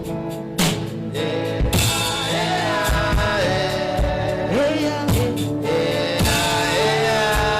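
Live worship music: a voice holds long, sliding notes over sustained keyboard chords and a steady drum beat.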